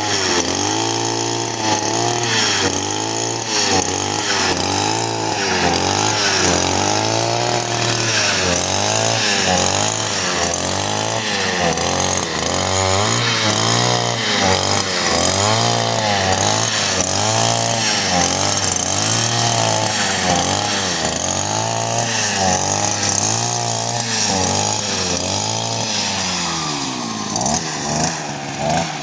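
Small two-stroke brushcutter engine running under load, its pitch rising and falling over and over as the throttle is worked.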